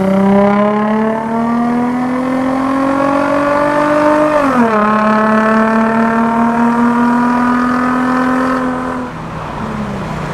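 Infiniti G35's VQ-series 3.5-litre V6 running through a muffler delete and test pipes (resonator still in place), loud under hard acceleration. The engine pitch climbs, drops sharply at an upshift about four and a half seconds in, climbs again, then falls as the throttle lifts near the end.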